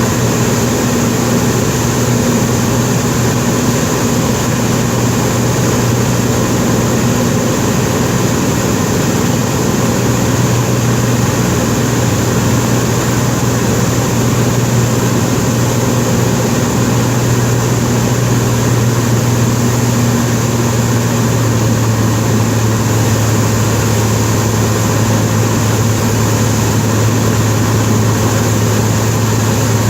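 Cessna 207's single piston engine and propeller running as a steady, loud drone, dropping slightly in pitch about twenty seconds in.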